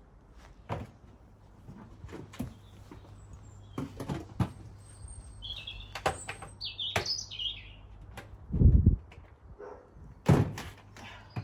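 Small garden birds chirping briefly in the middle, among scattered clicks and knocks of bird feeders and containers being handled. There is a heavy thump near the end, then a sharp knock.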